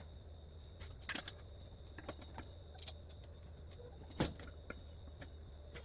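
Faint, scattered metallic clinks and taps of kart parts and tools being handled, with a sharper knock about four seconds in, over a steady low hum.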